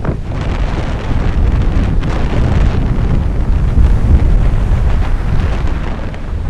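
Strong storm wind buffeting the microphone in a loud, gusting low rumble, over the rush of a rough sea.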